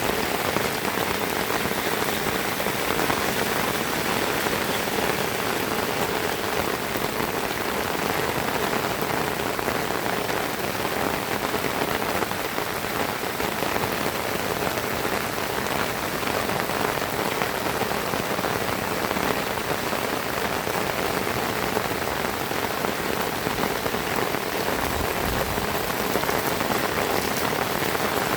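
Heavy rain pouring steadily, a dense even hiss of drops hitting the surfaces around.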